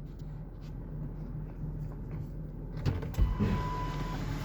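Carbureted pickup truck engine idling steadily, heard from inside the cab. A click and a low thump come about three seconds in, followed by a steady whine lasting about a second.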